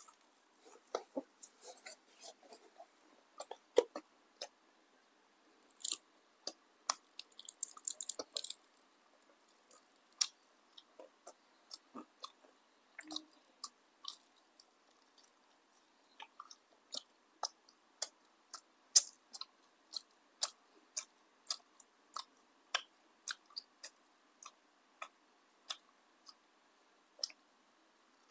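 Biting and chewing crisp deep-fried tempeh fritters: a long run of uneven sharp crunches and crackles as the fried crust breaks between the teeth, with a few crunches closer together in short flurries.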